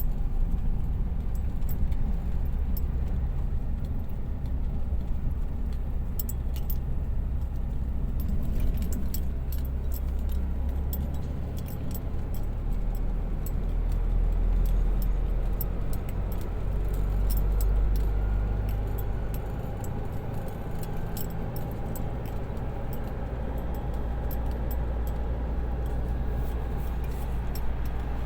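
Light rain: scattered drops ticking sharply close by over a steady low rumble.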